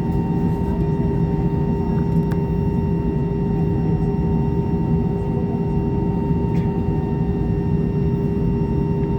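Airbus A320 cabin noise on the ground before takeoff: the engines and air conditioning running steadily, an even rumble with a constant hum of several steady tones.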